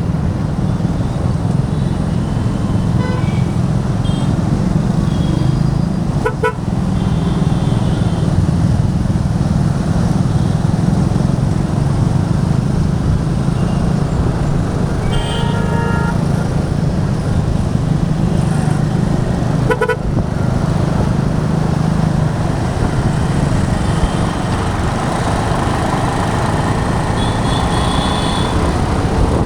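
Motorcycle riding through city traffic: a steady low engine and wind rumble, with vehicle horns tooting several times, the loudest a longer honk about halfway through.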